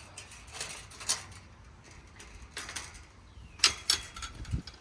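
Scattered clicks and short rustling knocks over a faint low rumble, the loudest two coming close together about three and a half seconds in.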